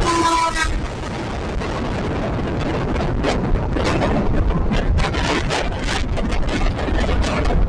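Express passenger train running, heard from on board: a steady low rumble and wind buffeting. From about three seconds in there is a dense run of clicks and rattles from the wheels and coaches on the track. A brief pitched tone sounds right at the start.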